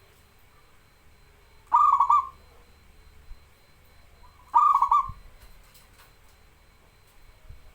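Zebra dove (perkutut) cooing: two short phrases of rapid, stuttering coos, each about half a second long and about three seconds apart.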